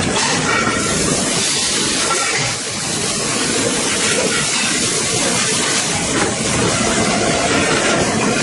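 Steady factory-floor machinery noise: a loud, dense hiss with faint whining tones through it and no single machine standing out.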